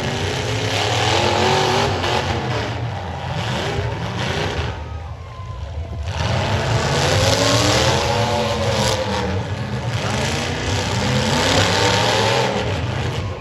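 Demolition derby cars' engines revving hard, the pitch climbing and falling again and again, with a short lull about five seconds in.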